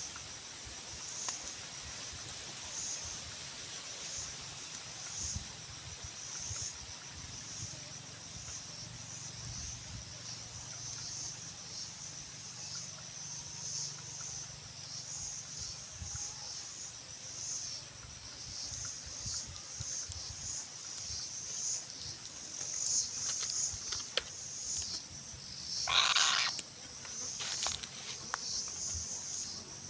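Insects chirping in a steady, high-pitched pulsing chorus, with a short louder call or scrape near the end.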